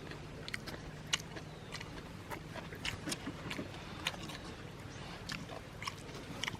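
A person chewing food close to the microphone, with frequent short, sharp mouth clicks and smacks at irregular intervals.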